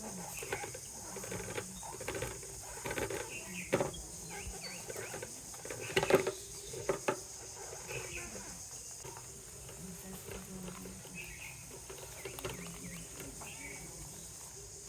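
Rustling and crackling of nest material being handled and woven by hand, with a few sharp clicks and snaps.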